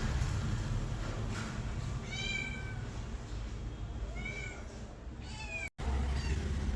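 Domestic cat meowing three times, short calls that rise and fall in pitch, over a steady low rumble.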